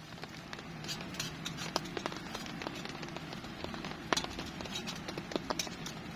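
Steady rain falling, with irregular sharp ticks and crackles scattered through it; the loudest crack comes a little after four seconds in.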